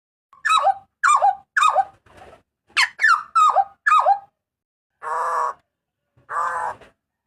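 Hooded butcherbird calling. It gives a quick run of short, loud notes, each sliding sharply down in pitch, then two longer harsh, buzzy notes.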